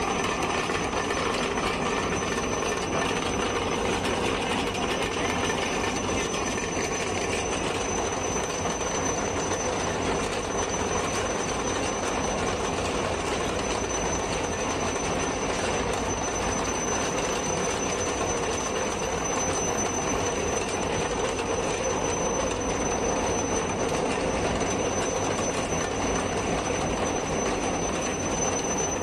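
Rail-panel freight wagons running along the track: a steady rumble and rattle of the train in motion, with a thin high whine held throughout.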